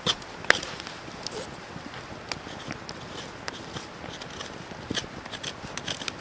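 Wood fire crackling, with irregular sharp pops and snaps over a low steady hiss; the loudest pop comes about half a second in.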